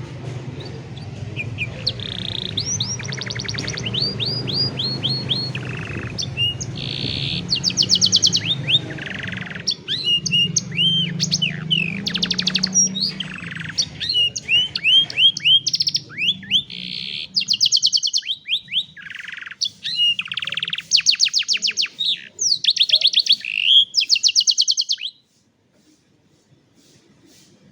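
Domestic canary singing a long, varied song of fast trills, rolls and rapidly repeated chirps, stopping abruptly near the end. A low background rumble lies under the first two-thirds.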